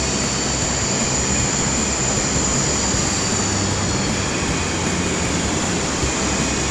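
Syma S033G coaxial RC helicopter in flight: its electric motors give a steady high-pitched whine over the rushing noise of the rotors.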